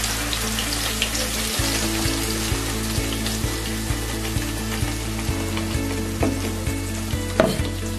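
Wet tomato, onion and chilli paste sizzling and crackling as it is poured into hot mustard oil in a kadai, over background music with a steady beat.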